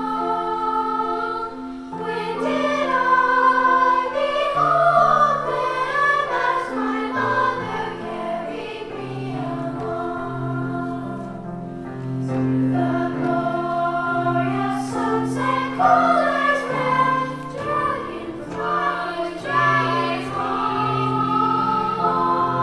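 A choir of young singers singing a sacred song in several voices, with held low accompanying notes beneath them.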